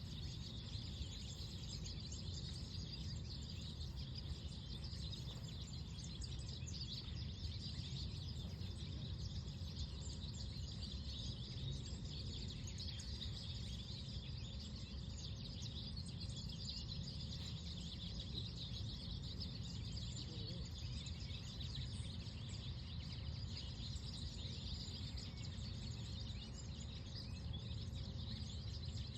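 Many small birds chirping continuously over a steady low rumble of breeze.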